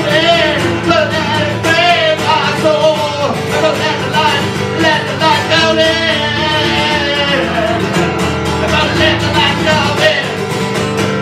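Live band music led by guitar, with singing; the melody line wavers in pitch with vibrato over a sustained accompaniment.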